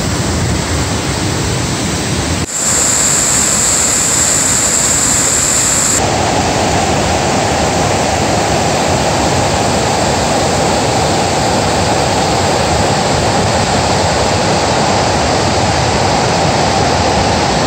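Mountain creek in flash flood, fast water rushing in a loud, steady wash, swollen by typhoon rain and inflowing tributaries. The sound changes abruptly about two and a half seconds in and again about six seconds in.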